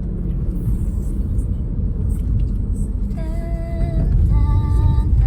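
Low, steady rumble of a car driving, heard from inside the cabin. In the second half a woman's voice hums or sings two held notes, one after the other, the second a little higher.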